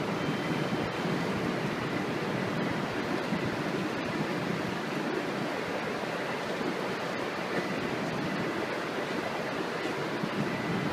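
Steady rushing wind noise on a station platform in strong wind, even and unbroken, with a faint thin steady tone above it.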